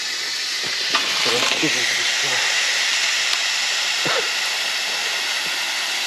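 Campfire of freshly added logs burning hard: a steady, loud rushing hiss with a few sharp crackles.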